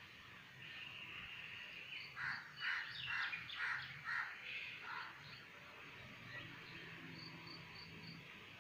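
Birds calling outdoors: a quick run of about eight harsh calls in the middle, then four short, high chirps near the end, over faint steady outdoor background noise.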